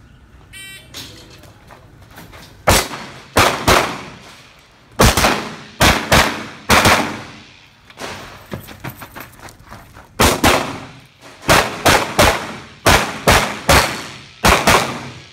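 A shot timer's short start beep about a second in, then a string of handgun shots in quick pairs and runs with pauses of a second or two between them: a shooter working through an IPSC stage.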